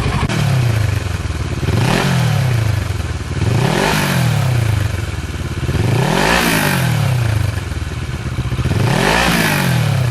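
Kawasaki Versys 650 parallel-twin engine revved four times through a LeoVince stainless-steel slip-on exhaust, each rev rising quickly and dropping back to idle.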